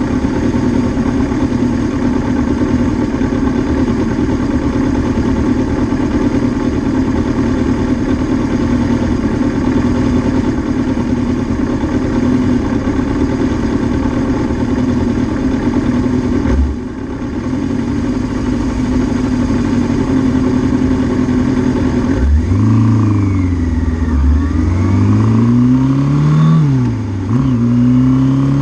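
Suzuki GS650G motorcycle's air-cooled inline-four engine running steadily at idle, then revved several times near the end, the pitch rising and falling with each blip of the throttle.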